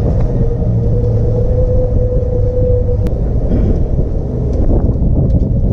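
A vehicle engine running close by with a heavy low rumble, and a steady whine for the first three seconds or so.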